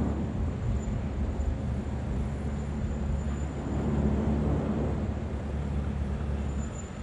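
Large boat's engines running with a steady low rumble; the deepest part of the hum drops away near the end.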